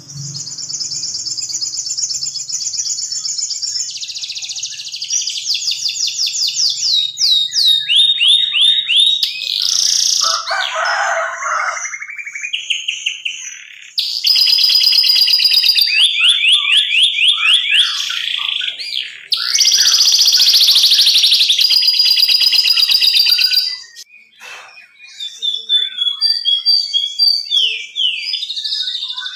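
Domestic canary singing a long, varied song made of fast trills of repeated notes, many of them falling in pitch, switching to a new phrase every few seconds. A lower, rolling passage comes about a third of the way in, and the song drops off briefly about four-fifths through before starting again.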